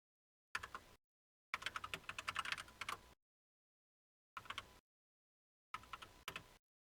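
Computer keyboard typing in four short bursts of rapid keystrokes, the longest lasting about a second and a half, with dead silence between bursts.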